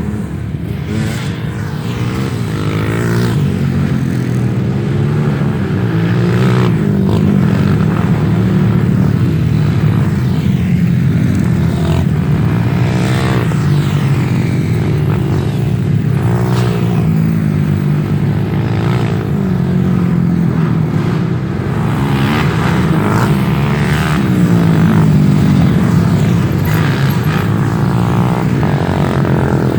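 Dirt bike engines revving hard, the pitch rising and falling again and again, with scattered knocks and scrapes.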